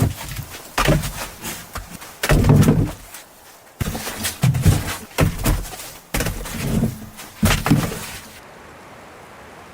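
A series of irregular knocks and thuds, about a dozen spread over eight seconds, then they stop.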